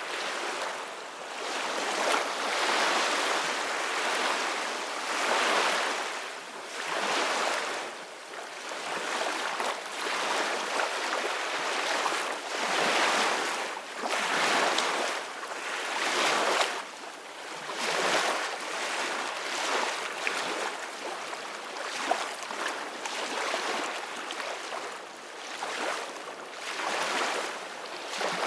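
Ocean surf: waves breaking and washing in, the rush of water swelling and fading every couple of seconds.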